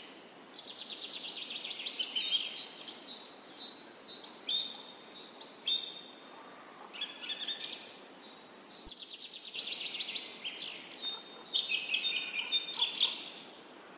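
Songbirds singing in the background: a string of high chirps and rapid trills, one call after another.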